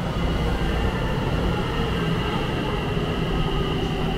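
Tsukuba Express electric train running along the platform: a steady low rumble with a high, steady whine over it.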